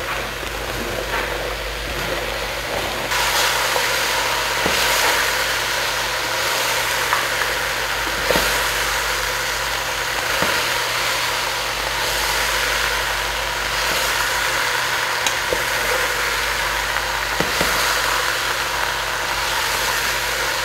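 Beef and freshly added diced potatoes, onions, celery and carrots sizzling in a pot on high heat, louder from about three seconds in, with a spoon now and then scraping and knocking against the pot as they are stirred. A steady low hum runs underneath.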